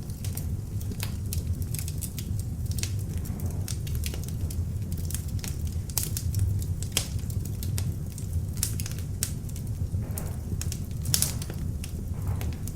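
Beech-wood log fire in an open fireplace burning steadily, with a low rumble of flames and frequent irregular sharp crackles and pops from the wood, a few louder ones near the end.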